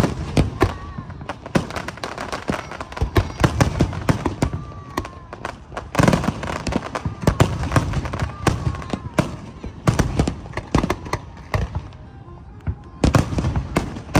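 Fireworks display: a dense, continuous barrage of bangs and crackles, easing briefly about three-quarters of the way through before the volleys pick up again.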